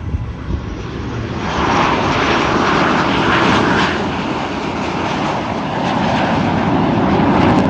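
BAE Hawk jet trainers flying past with a loud rushing jet roar that swells about a second and a half in, eases a little midway and builds again near the end.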